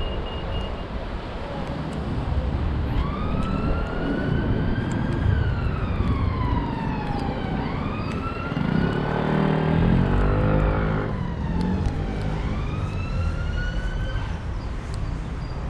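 Emergency vehicle siren on a slow wail, rising and falling in pitch about three times, over street traffic. A vehicle passes close by near the middle, its engine loudest then.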